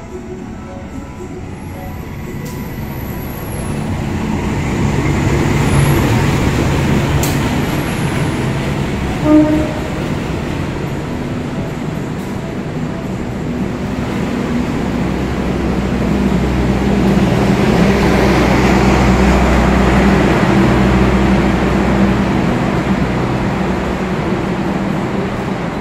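Diesel-electric passenger train pulling into a station, led by a CC 201 locomotive: engine and wheels on the rails grow louder over the first few seconds as the locomotive passes, then the coaches keep rolling past. A short, loud beep sounds about nine seconds in.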